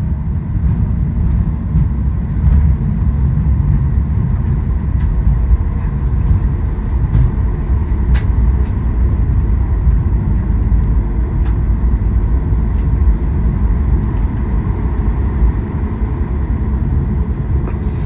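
Steady low rumble inside the cabin of a Boeing 737 MAX 8 rolling on the ground just after landing, from the engines and the wheels on the pavement, with a few faint clicks.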